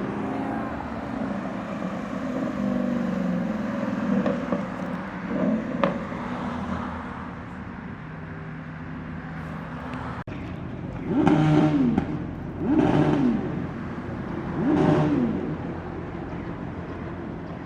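Vehicle engine running steadily, then revved three times in quick succession, each rev rising and falling in pitch.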